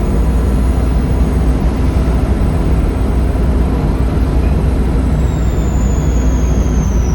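Volvo D7C 7.3-litre diesel engine of a Volvo B7RLE bus running hard under load, with a thin high turbo whistle that holds steady and then falls in pitch from about five seconds in as the turbo spools down.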